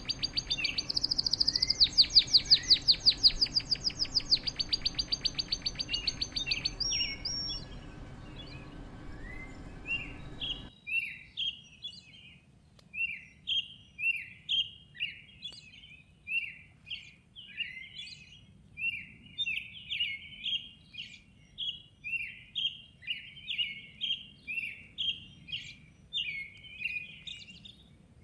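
Songbirds singing: first a loud, rapid trill of fast repeated notes over a background hiss. After a sudden cut about ten seconds in, there is a steady series of short chirps, about two a second, over a quieter background.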